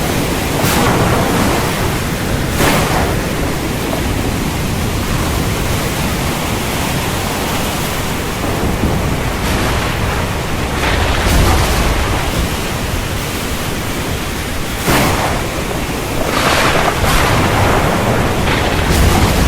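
Heavy rain pouring steadily, with low rumbles of thunder, the strongest about eleven seconds in.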